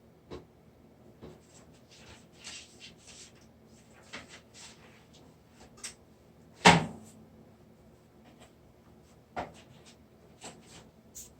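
Scattered small clicks and soft rustles in a quiet small room, with one much louder knock a little past halfway that rings briefly.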